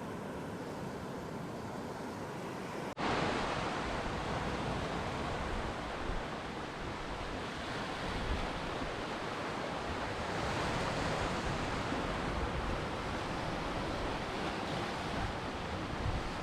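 Ocean surf washing in a steady rush of noise. About three seconds in it cuts abruptly to a louder, brighter stretch of surf.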